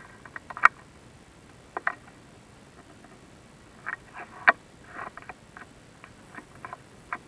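Irregular light clicks and knocks, some in quick clusters, from a chimney inspection camera and its rod being handled and turned in the flue. The sharpest knocks come under a second in and about halfway through.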